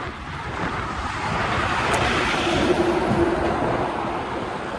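Road traffic: a motor vehicle passing close by, its tyre and engine noise swelling to a peak near the middle and fading away, with a steady hum in the second half.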